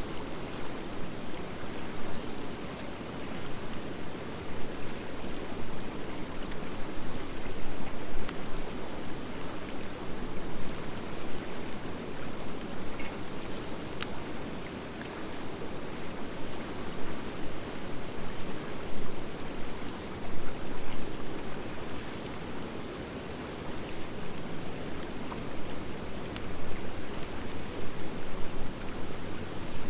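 Wood fire of driftwood and dry hardwood logs burning: a steady rushing hiss with scattered sharp crackles and pops, the loudest pop about 14 seconds in.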